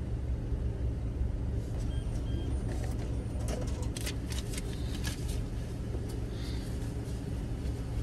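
Car engine idling with a steady low hum, heard from inside the cabin. Light clicks and rustling of a bank card and wallet being handled come in a cluster from about two and a half to five and a half seconds in.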